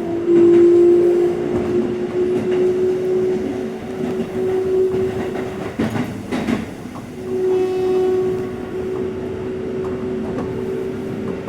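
Keikyu 600 series train heard from inside the car while running, its Mitsubishi GTO VVVF traction equipment giving a strong steady whine over the wheel and rail rumble, with a short clatter of rail joints about six seconds in.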